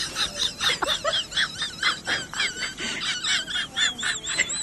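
A bird chirping rapidly, about four sharp high notes a second, turning into quick warbling notes in the second half.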